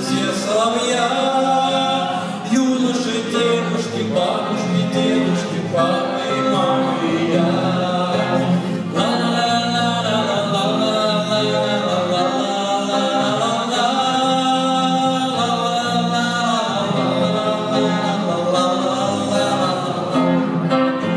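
Singing of a romance-style song over steady instrumental accompaniment, with voices holding long, gliding notes.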